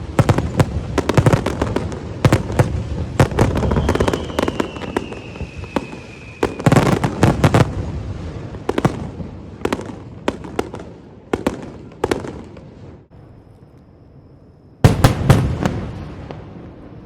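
Aerial fireworks display: a rapid barrage of shell bursts and crackling bangs in a starmine volley, with a high whistle falling slightly in pitch about four seconds in. The bangs thin out around twelve seconds in, then a cluster of loud bursts goes off near fifteen seconds.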